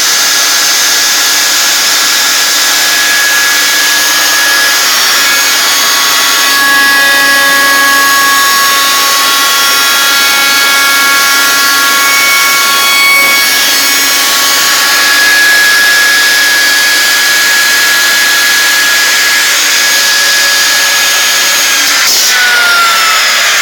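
CNC router spindle cutting a wooden stair stringer: a loud, steady cutting noise with high whining tones that change as the tool moves. Near the end the tones slide down in pitch.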